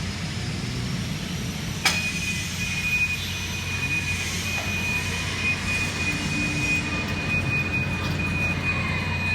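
Steady hum of workshop machinery, with a sharp click about two seconds in followed by a steady high-pitched whine.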